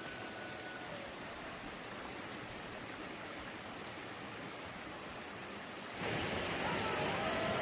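Steady outdoor background noise with no distinct events, growing louder and fuller about six seconds in, with faint thin whistling lines in it.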